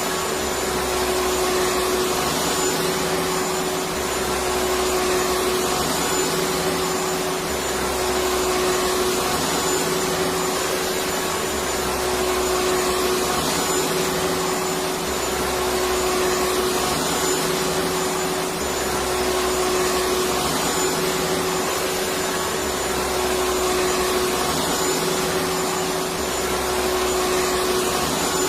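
Electric vacuum cleaner running steadily: a continuous rushing noise with a steady hum, its loudness swelling and easing slightly every few seconds.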